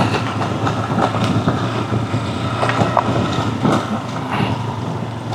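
Honda CRF300 dual-sport motorcycle's single-cylinder engine running slowly in first gear, with scattered knocks and rattles as the bike picks its way along a rough, muddy road.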